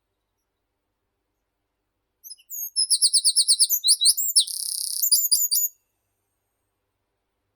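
A small meadow songbird sings one high song phrase of about three and a half seconds, starting about two seconds in: a fast run of repeated short notes, a brief buzzy stretch, then a few closing notes.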